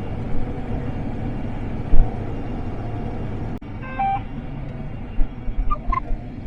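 Combine harvester running while cutting wheat, a steady low rumble heard from inside the cab. There is a low bump about two seconds in and a few short beeps about four and six seconds in.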